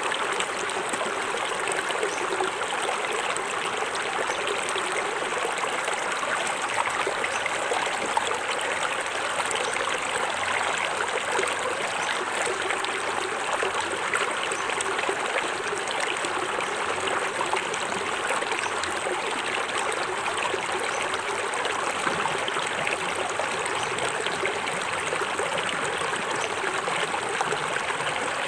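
Small forest waterfall splashing and running into a stream: a steady, even rush of water.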